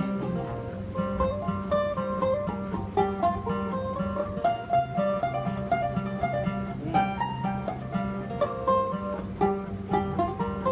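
Acoustic string-band instrumental break: a steady strummed rhythm under a picked lead melody that moves note by note.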